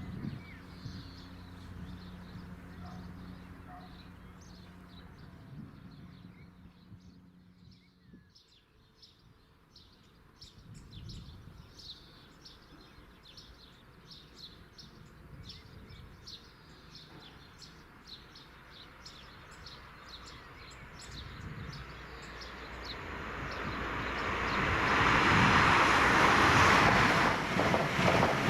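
A train's low engine hum dying away over the first several seconds, then birds singing beside the line. Near the end the noise of another train swells quickly as it approaches and passes at speed.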